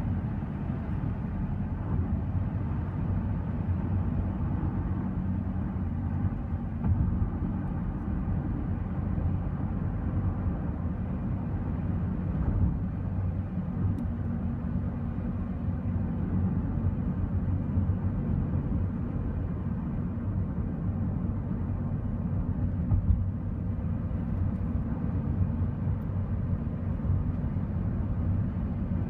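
Steady low rumble of a car driving at highway speed, heard from inside the cabin: tyre and engine noise with no change in pace.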